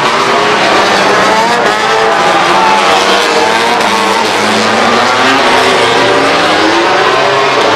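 Several racing motorcycle engines running hard together, their pitches repeatedly rising and falling as the bikes accelerate and change gear, loud and continuous.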